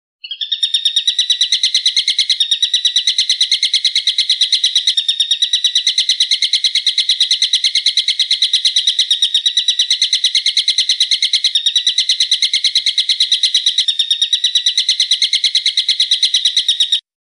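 A bird calling a long, fast, unbroken series of sharp, high repeated notes, about six or seven a second, which cuts off suddenly near the end.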